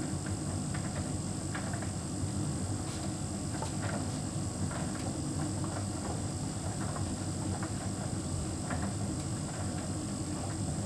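Hotpoint heat pump tumble dryer running steadily: a low hum from the motor and compressor, with a steady high whine and faint irregular ticks from the load tumbling in the drum.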